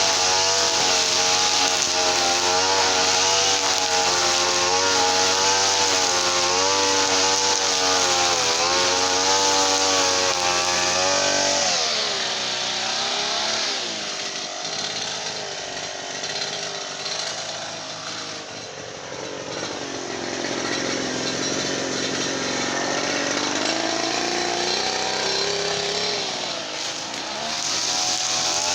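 Two-stroke brush cutter engine running at high speed, its pitch wavering with load. About twelve seconds in it is throttled back to a lower, uneven speed, and it revs up again near the end.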